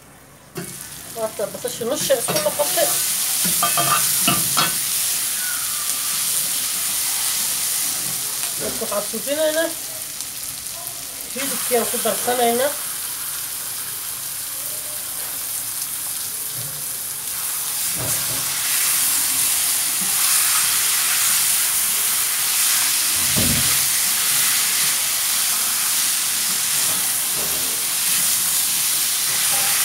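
Sliced onions and chicken pieces sizzling as they fry in an aluminium pan, stirred with a wooden spoon. The sizzle starts about half a second in and grows louder around eleven seconds in.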